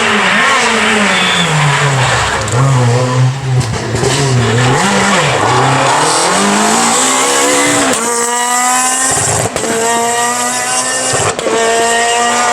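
Renault Clio R3 rally car's four-cylinder engine working hard on a stage: revs rising and falling through the first part, then pulling flat out through the gears with quick upshifts about a second and a half apart near the end. Tyres squealing as it goes.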